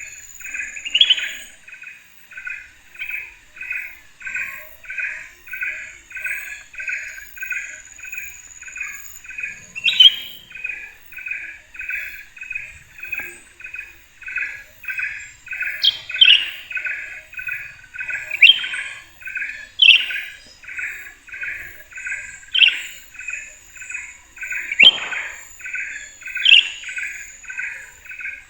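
A bird calling over and over in a steady run of short notes, about two or three a second, with a higher rising chirp every couple of seconds. A high, steady insect whine sounds underneath.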